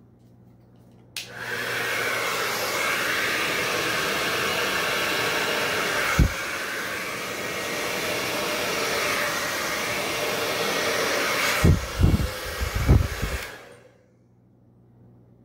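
Hair dryer switched on with a click about a second in, blowing steadily for about twelve seconds to push wet acrylic paint across the canvas in a Dutch pour. Low thumps of air gusting on the microphone come once in the middle and several times near the end, before it is switched off and winds down.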